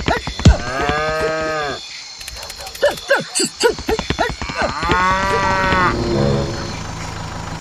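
Cow mooing, two long calls about four seconds apart, with short sharp sounds in between.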